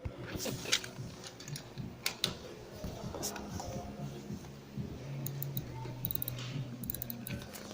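Scattered sharp clicks and taps, with a quick run of light clicks about five to seven and a half seconds in, over faint background music of sustained low notes.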